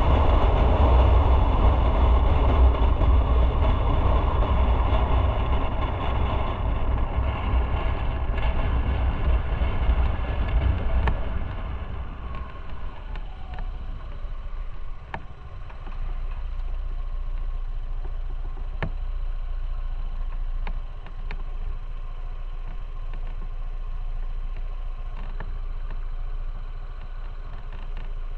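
Motorcycle riding with heavy wind and road rumble, which eases off about twelve seconds in to a quieter, steady engine hum as the bike slows to idle, with a few faint clicks.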